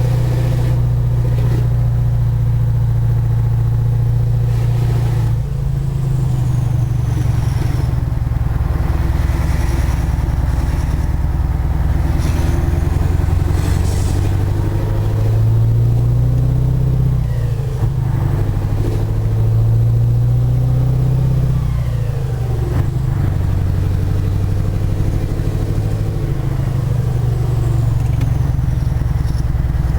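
Scania 143 450 V8 diesel truck engine running under load. The engine speed climbs and drops sharply a few times in the second half, as between gear changes.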